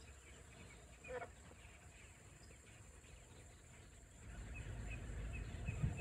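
Faint outdoor bird sounds: a single short call about a second in, then a run of short, high chirps, about two a second, near the end, over a low rumble.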